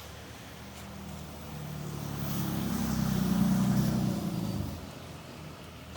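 A motor vehicle driving past, its engine hum getting louder to a peak about three and a half seconds in, then fading out about a second later.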